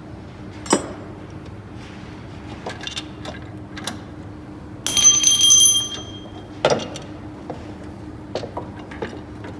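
Metal tools and engine parts clinking during engine disassembly. A sharp clank comes just under a second in. About five seconds in, a metal piece rings for about a second like a struck bell, and another clank follows shortly after.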